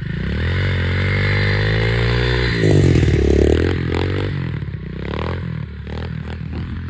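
Pit bike's small engine running, revved up about three seconds in and then settling. Scraping and clattering come through over it.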